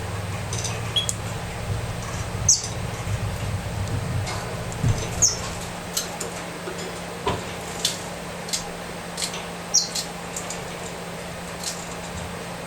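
Canary nest with a chick being fed by its mother: brief high squeaks and scattered sharp clicks, a few squeaks a handful of seconds apart, over a steady low hum.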